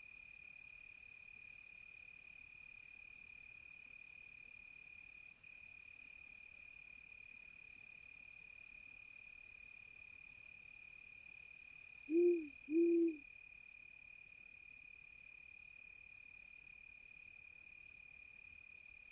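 Crickets chirring in a steady high drone throughout, with an owl hooting twice in quick succession about twelve seconds in; the two short, low hoots are louder than the crickets.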